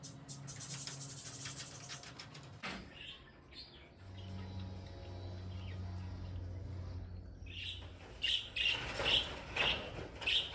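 Birds chirping in short, high, repeated calls, most of them in the last three seconds. Before that there is a rustling crackle in the first two seconds and a low steady hum in the middle.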